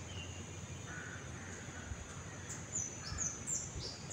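Faint bird calls: a couple of short, rough calls in the first second or so, then a run of high, falling chirps repeating about three times a second in the second half.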